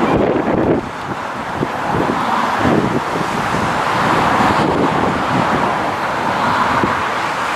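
Steam locomotive running past with its train: a steady, loud rushing noise with irregular low thumps.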